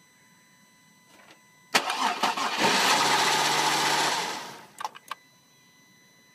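Cadillac CTS engine cranked by jumping the starter with a wire: it cranks, catches and runs for about a second and a half, then fades and dies, and two sharp clicks follow. The engine won't stay running.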